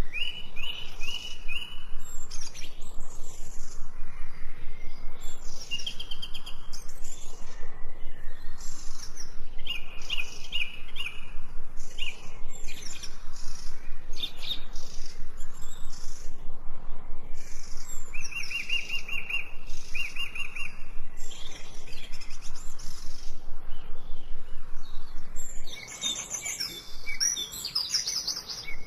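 Several songbirds singing and chirping: a short trill of quick, even notes at one pitch recurs every few seconds, with higher chirps and quick sweeping calls in between.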